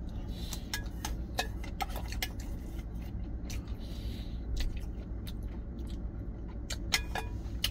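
Close-up eating sounds: chewing a mouthful of rice and jangajji (Korean soy-pickled vegetables), then eating from a spoon, with scattered light clicks. A steady low hum runs underneath.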